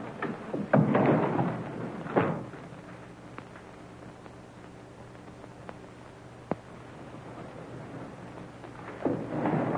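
Noisy 1930s film soundtrack with a few dull thuds in the first couple of seconds, then a steady low hum and hiss broken by a few sharp clicks, and a swelling rush of noise near the end.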